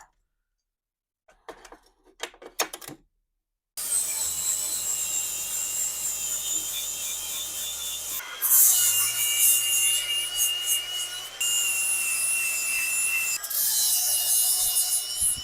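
A few brief clatters, then a handheld power grinder running from about four seconds in, grinding down a brazed steel patch on a cast-iron part. Its whine and loudness shift several times as it is worked against the metal.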